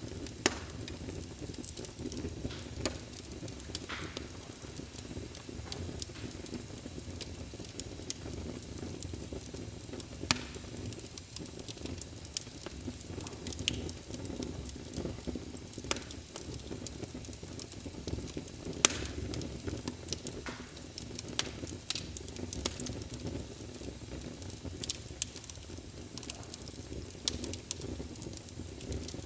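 Wood fire burning in a fireplace: a steady low rumble of flames with irregular crackles and sharp pops from the burning logs, a few louder snaps scattered through.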